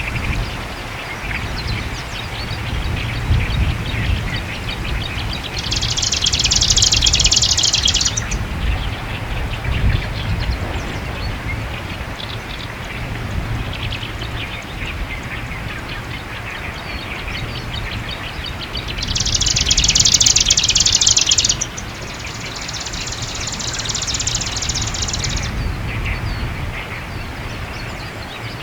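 Marsh grassbird singing: three loud, rapid buzzy song phrases, one about six seconds in and two back to back near the end, with fainter bird notes between. Strong wind rumbles on the microphone throughout.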